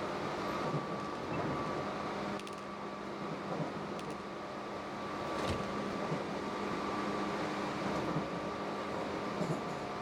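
Cabin sound inside a Tobu 8000-series train: a steady mechanical hum with two level tones, and a few faint clicks about a second and a half to three seconds apart.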